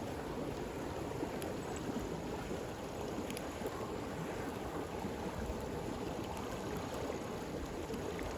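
Stream water flowing steadily, with a few faint, sparse crackles from a campfire.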